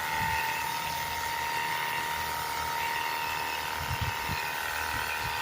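Ontel Turbo Jet HydroX5 Pro 21V cordless pressure washer running: a steady high motor whine over the hiss of the water spray.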